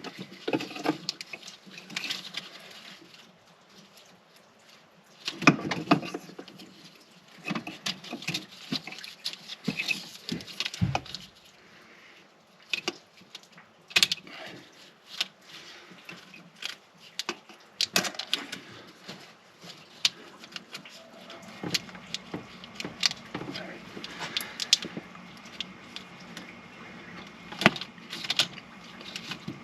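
Hand tools and metal parts clinking, clanking and rattling as they are picked up and handled, in scattered irregular knocks. About two-thirds of the way in a steady low hum starts underneath.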